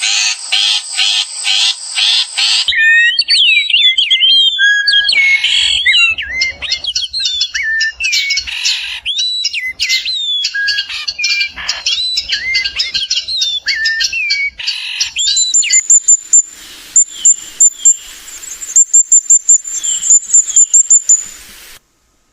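Songbirds singing. A rapid pulsing call gives way after about three seconds to a varied song of whistled glides and trills. From about fifteen seconds in, a bird repeats short, high chirps until a sudden cut near the end.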